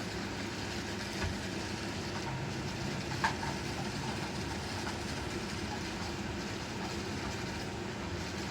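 Several robot vacuums running at once, giving a steady mechanical hum, with a light click a little over a second in and another about three seconds in.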